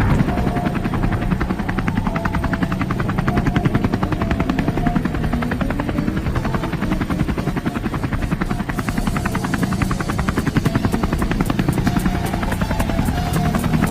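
Helicopter rotor blades beating in a fast, steady chop.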